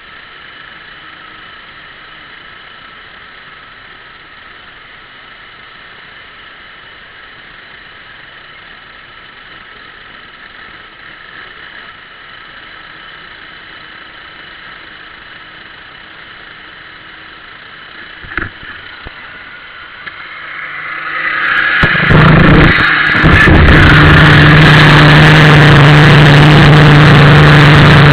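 ASP 61 two-stroke glow (nitro) model boat engine starting up. After a long quiet stretch of faint steady hum and a single knock, it catches about 21 seconds in, sputters briefly, then settles into a loud, steady, high-pitched run.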